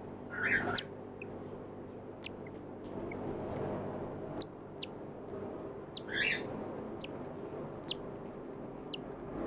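Six-day-old cockatiel chick making scattered short, high peeps, with two longer raspy calls about half a second and six seconds in, over a steady low hum.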